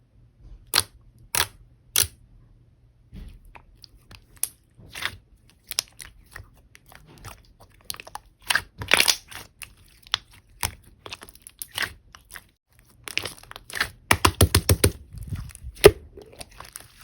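Slime being squeezed and stretched by hand, giving scattered sharp pops and crackles, with a quick run of pops near the end.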